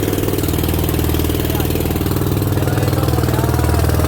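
Boat engine running steadily at a constant speed, a loud, even, rhythmic drone.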